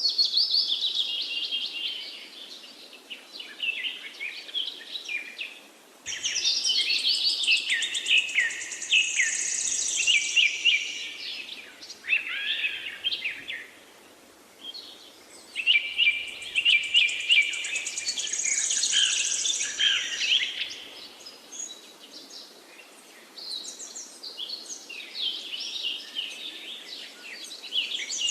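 Songbirds chirping and singing in quick, overlapping trills and twitters, coming in stretches of a few seconds with short quieter lulls between.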